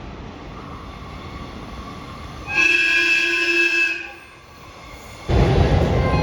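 A train's horn sounds one short blast of about a second and a half, starting about two and a half seconds in. Near the end a loud, steady rushing noise sets in.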